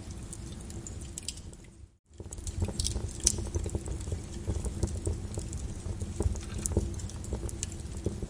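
Flowing lava crackling and popping over a low rumble, with many sharp irregular clicks. The sound fades out to silence about two seconds in and fades back in at once, like a cut between clips.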